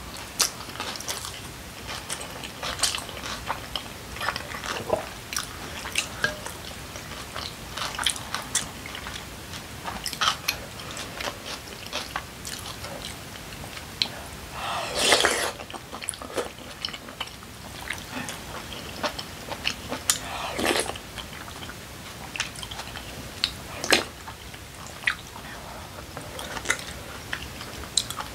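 Close-miked eating sounds: chewing mouthfuls of yeolmu kimchi bibimbap with wet mouth clicks and smacks. About 15 seconds in there is a longer slurp as a spoonful of soft tofu stew is taken.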